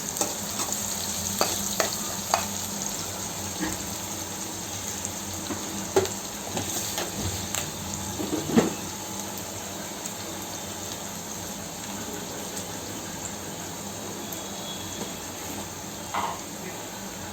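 Chopped onions frying in hot oil in a pan, sizzling steadily, with a spoon stirring and knocking against the pan now and then, mostly in the first half.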